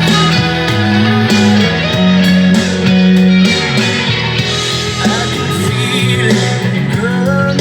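Rock music led by an electric guitar played through a Zoom G5n multi-effects unit, with bass and drums under it, in an instrumental stretch without singing.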